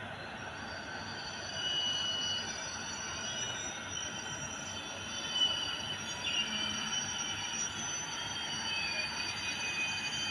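Train wheels running on the rails with a steady rumble, and high squealing tones from the wheels that waver and come and go.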